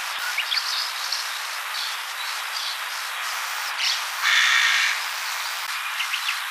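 Wild birds chirping and calling over a steady hiss, with short rising chirps scattered through and a harsher, noisier call lasting under a second about four seconds in.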